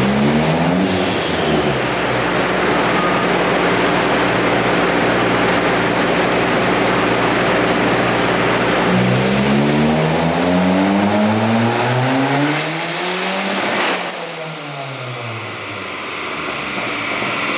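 Turbocharged Ford Focus engine making a full-throttle dyno pull at about 0.9 bar of boost. The engine note climbs steadily and a high turbo whistle rises with it. About 14 seconds in the driver lifts off, the whistle cuts out and the engine winds down.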